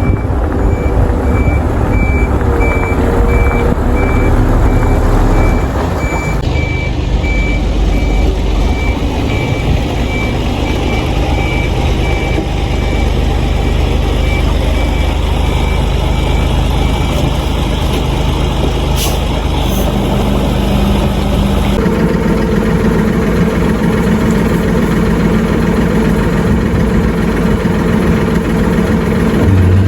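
A truck's engine running, with a high electronic beep repeating at a steady pace through the first half or more.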